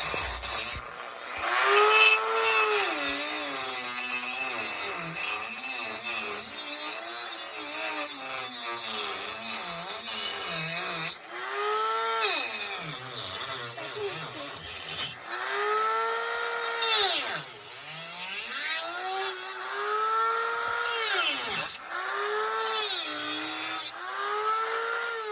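Dremel rotary tool cutting and grinding into a pine wood block. The motor's whine repeatedly drops in pitch as the bit bites into the wood under load, then climbs back as it eases off.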